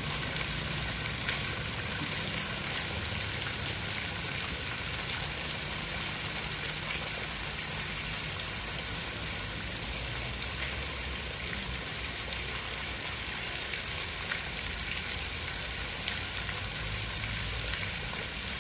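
Steady water noise: an even hiss with a fine crackle of drops over a low rumble, like rain falling.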